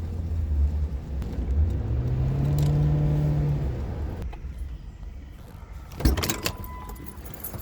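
Car engine running, its hum rising in pitch and holding, then cutting out about four seconds in; a few sharp clicks and rattles follow near the end.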